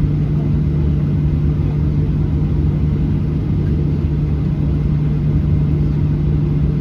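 Boeing 737-800 cabin noise: a steady low rumble of the jet engines and airflow with a constant low hum, holding an even level throughout.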